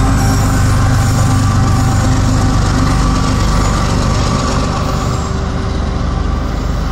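A passing train: a steady low diesel engine drone over wheel and rail noise, easing slightly near the end.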